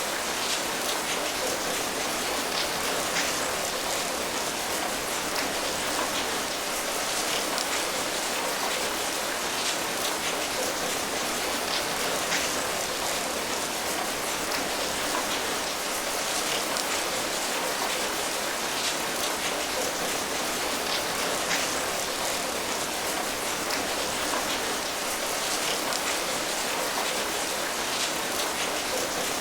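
Steady rain falling, an even patter of many drops with individual drop hits scattered through.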